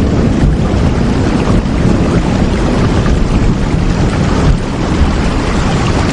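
Steady heavy rain: a dense, even wash of noise with a strong low rumble, unchanging throughout.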